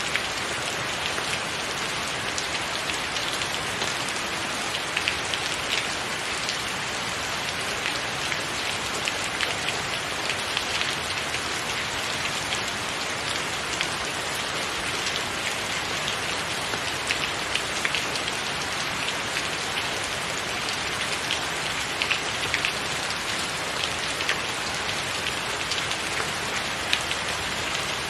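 Steady rain falling, an even hiss with many sharp individual drop hits standing out over it.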